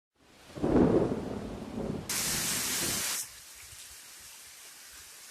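A rumble of thunder over rain in the first two seconds, then about a second of loud rain hiss that starts and stops abruptly, leaving a steady, softer rain.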